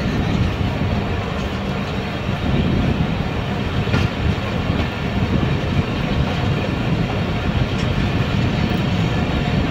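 Passenger train running on the rails as it pulls out of a station, heard from on board: a steady low rolling noise.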